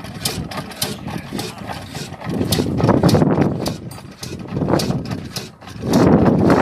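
A slow-running 22 HP, 300 RPM stationary oil engine (a 'kala' engine) running steadily, with a regular sharp ticking at about four a second over its low thudding noise. The noise swells louder twice, about three seconds in and near the end.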